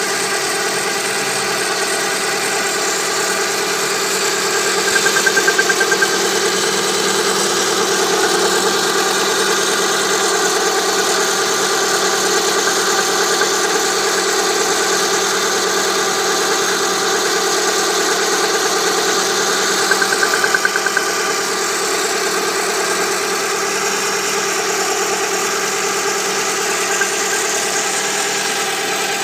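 VAZ-2109 (Lada Samara) four-cylinder petrol engine idling with a knock from inside the engine. It gets briefly louder twice, about five seconds in and about twenty seconds in.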